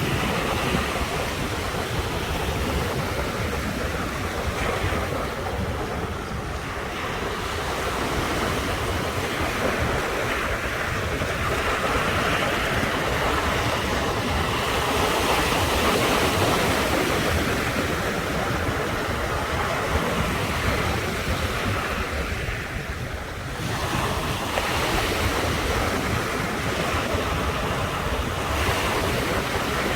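Ocean surf washing in continuously, swelling and easing every several seconds, with a low rumble of wind on the microphone.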